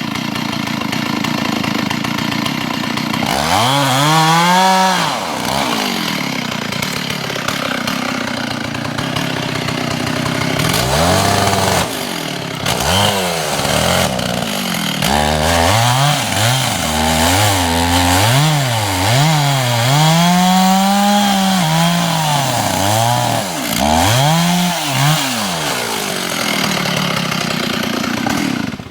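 Two-stroke chainsaw boring into the trunk of a dead hemlock. The engine pitch climbs and sags again and again as the bar is pushed in and eased off under load. The saw cuts off suddenly at the end.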